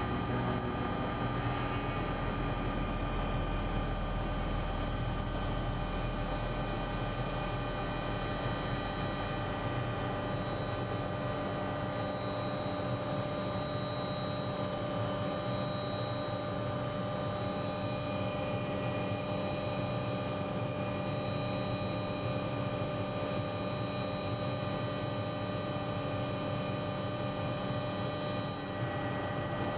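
Helicopter running in flight: a steady drone with several constant high whining tones over a low rumble.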